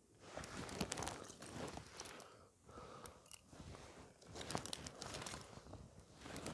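Irregular crunching and crinkling of fire-building material being handled and broken by hand, in three bouts of about two seconds each.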